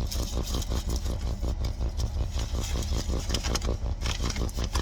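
A vehicle engine idling steadily, with an even low pulsing rhythm.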